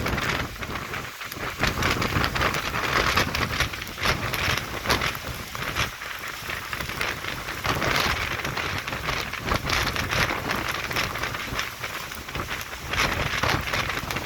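Heavy rain pouring down, its intensity rising and falling in surges.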